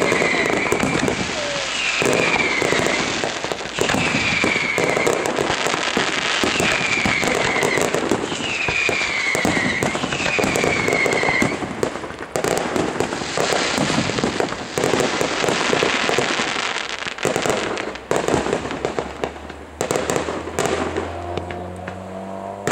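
Aerial fireworks display by Zink: a dense run of shell bursts, bangs and crackling. Through the first half, a falling whistle repeats about every second and a half. Near the end the bursts thin out and a low steady hum comes in.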